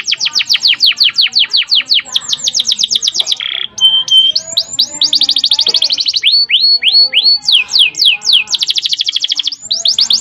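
Domestic canary singing long, fast rolling trills of rapidly repeated descending notes. A short steady whistled note sits about three and a half seconds in, then the trills resume at changing speeds.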